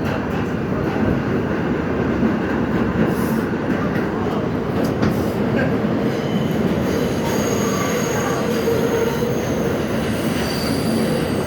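New York City Subway R68 car running on the rails with steady train noise. From about halfway through, thin high-pitched wheel squeals come in over it.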